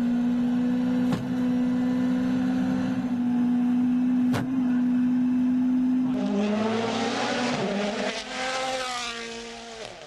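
Rally car engine held at steady high revs for about six seconds, with two sharp clicks along the way. Then the revs drop and rise quickly several times over a rushing noise, as the car brakes and shifts for a corner, and the sound fades near the end.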